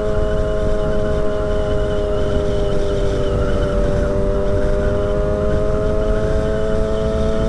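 2008 Yamaha YZF-R6's inline-four engine running at a steady high speed, its pitch sagging slightly midway and coming back up, over heavy wind rush on the rider's microphone.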